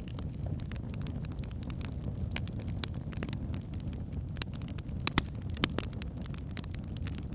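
Wood fire burning in a fireplace: a steady low rumble of the flames with scattered sharp crackles and pops from the logs, the loudest pops a little past five seconds in.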